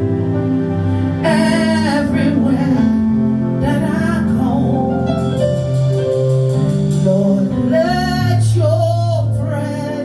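Slow worship music: a woman sings drawn-out phrases over sustained instrumental chords.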